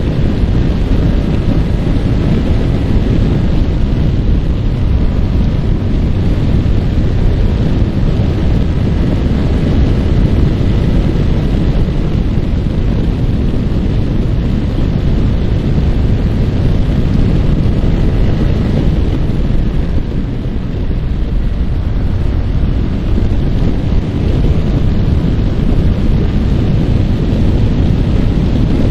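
Heavy wind buffeting on the microphone from a Yamaha R15 at riding speed, with the bike's single-cylinder four-stroke engine droning steadily underneath. The wind dips slightly about twenty seconds in.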